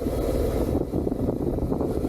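Suzuki SV650's V-twin engine running through its stock exhaust while the motorcycle is ridden, with wind noise on the microphone.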